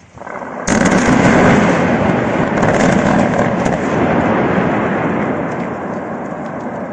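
Open-pit mine blast to strip overburden: a rising rumble, then a sudden loud detonation under a second in, followed by a long rumble that slowly fades.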